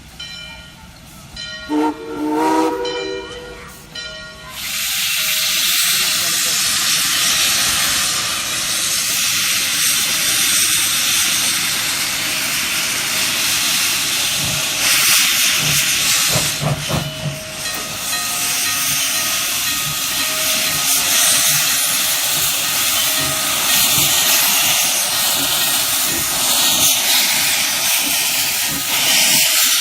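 Steam locomotive blowing a short whistle blast of about two seconds, then a long, loud, steady hiss of escaping steam.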